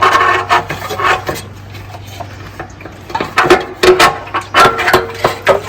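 Clinking, knocking and rattling of metal hand tools and small engine parts being handled, a string of sharp clicks thickest at the start and again in the second half.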